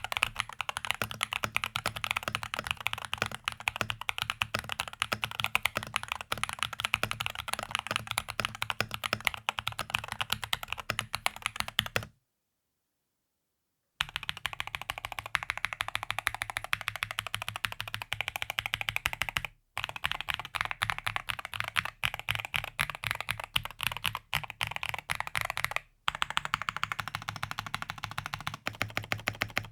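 Continuous fast typing on a Rexus DAXA M61/M64 60% mechanical keyboard, many quick key clicks and bottom-outs in a dense patter. About twelve seconds in it cuts to dead silence for a couple of seconds, then typing resumes, with two more brief dropouts later where the sound changes slightly between takes.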